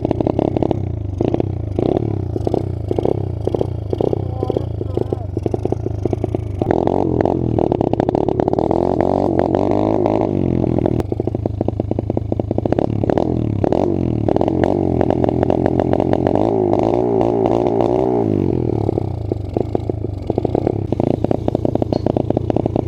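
Small single-cylinder pit bike engine being ridden hard, revving up and holding high revs twice, about seven and twelve seconds in, and dropping back in between and near the end.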